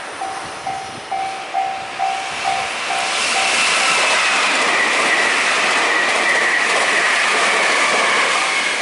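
Japanese railway level-crossing warning bell ringing about twice a second, then a train passing through the crossing, loud and steady, drowning the bell until it comes back near the end. While the train passes, a high tone slowly falls in pitch.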